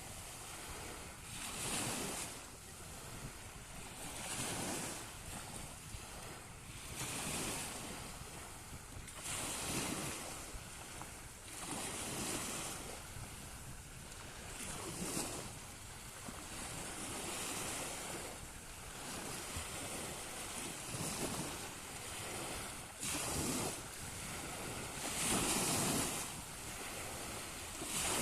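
Small sea waves breaking and washing on the shore, a surge of hiss every two to three seconds, with some wind on the microphone.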